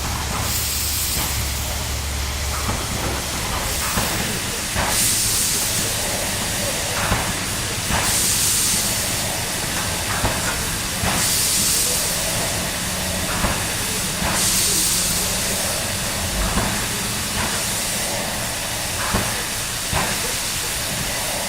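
Chinese SY-class steam locomotive working slowly: loud steam hiss surging in long bursts about every three seconds, with short sharp knocks in between.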